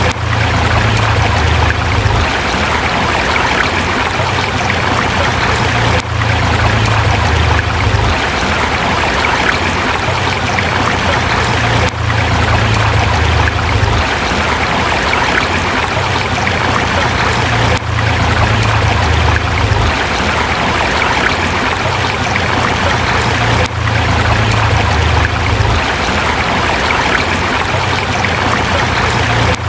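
Forest river flowing over rocks: a steady rushing and trickling of water, with a brief dip about every six seconds.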